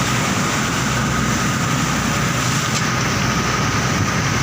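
A fishing boat's engine running steadily while underway, an even, unbroken drone.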